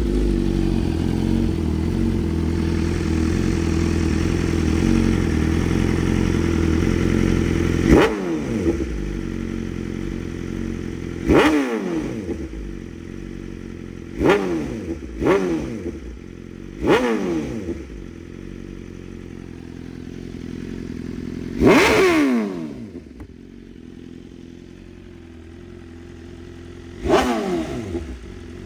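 2023 BMW S1000RR's inline-four engine through Akrapovic titanium headers and an SC-Project CR-T carbon can with no dB eliminator. It idles steadily for about eight seconds, then its revs are blipped sharply seven times, each rev falling quickly back to a lower idle. The blip about two-thirds through is the loudest.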